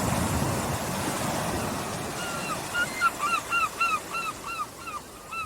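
Small waves washing on a beach, swelling in the first second. From about two seconds in, a bird calls in a quick run of short, arched, repeated notes.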